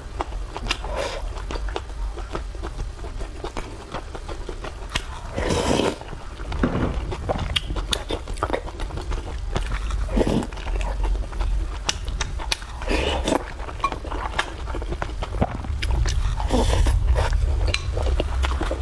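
Close-miked eating: a person chewing and biting food, with many small clicks and a few louder moments every three or four seconds, over a steady low rumble.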